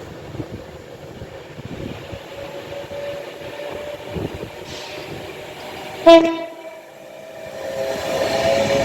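Class 390 Pendolino's horn sounds one short, loud blast about six seconds in. Then the approaching train's running noise grows steadily louder toward the end.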